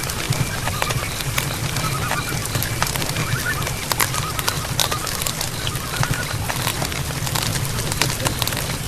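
Night forest ambience: a steady hiss with frequent sharp clicks and a few short, chirping animal calls.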